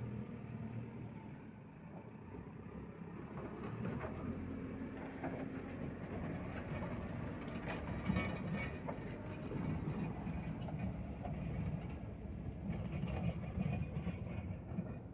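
Heavy machinery engine running steadily, with scattered metallic knocks and scrapes.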